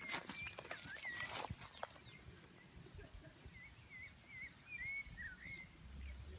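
Short, hooked bird chirps: a few in the first second and a half, then a quick run of about eight between three and a half and five seconds in. Footsteps crunch on dry soil and leaf litter near the start.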